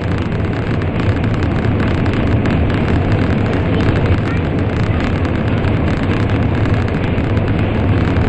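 Shinkansen train running at speed through a tunnel, heard from inside the passenger car: a steady, loud rumble and rushing noise with a strong low hum.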